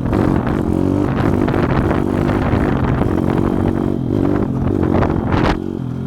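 Pit bike engine running, its pitch rising and falling as the throttle varies, with scattered clattering knocks. A loud clatter comes about five and a half seconds in, after which the engine settles to a steadier idle.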